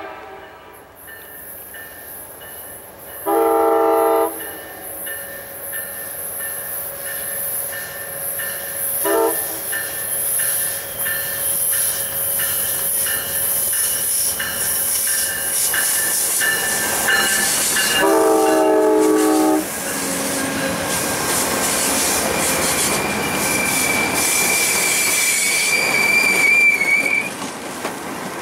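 Amtrak P42DC diesel locomotive's horn sounding as the train approaches: a blast of about a second, a brief toot, then a longer blast. After that the rumble of the passing passenger train builds, with a steady high wheel squeal on the curve near the end.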